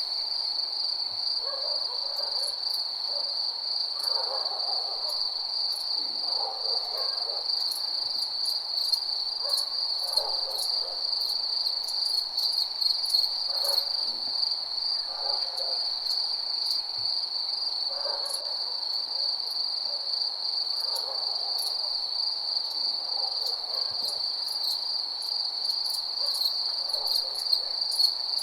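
Night insect chorus of crickets, a steady high-pitched trill, with lower calls of about a second each recurring every couple of seconds beneath it and scattered sharp ticks.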